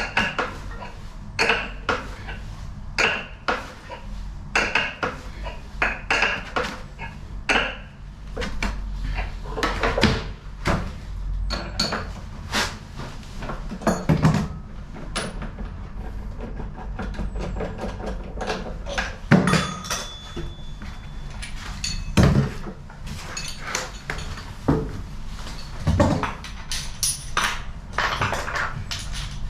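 Metal tools and washing-machine parts clinking and knocking as they are handled, with a few heavier thuds spread through, over a steady low hum.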